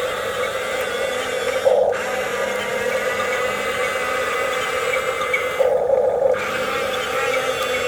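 Small electric motors and plastic gearboxes of radio-controlled toy construction vehicles whining steadily. The pitch changes briefly twice, about two seconds in and again near six seconds, as the load on the motors shifts.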